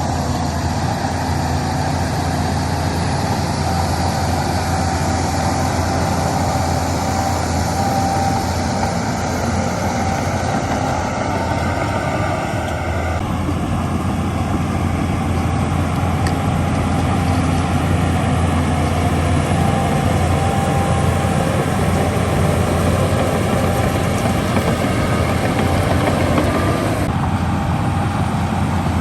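Heavy diesel engine of earth-moving machinery running steadily, a low drone with a thin steady whine over it. The sound shifts abruptly about halfway through and again near the end.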